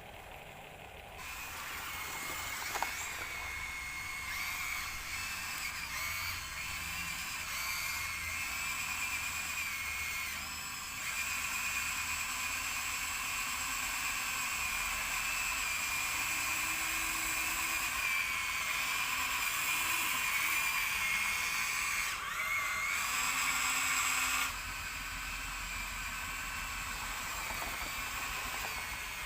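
Small electric motor and gearbox of a toy vehicle whining steadily, wavering slightly in pitch. It starts about a second in, dips briefly around ten seconds, and cuts off a few seconds before the end.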